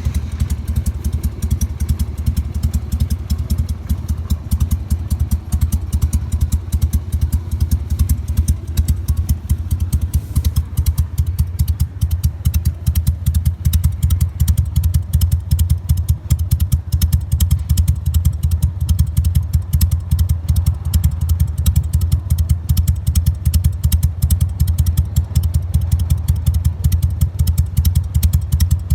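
Harley-Davidson Sportster's air-cooled V-twin idling through Screamin' Eagle mufflers, with the idle set slightly low. It gives a steady, uneven low exhaust beat with no revving.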